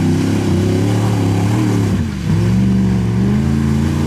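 Off-road vehicle engine running loud and revving. Its pitch drops sharply about two seconds in, then climbs back up.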